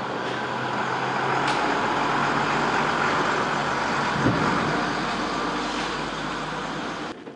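Steady, loud motor-vehicle noise: an even rushing sound over a low engine hum, with a single thump about four seconds in. It cuts off suddenly near the end.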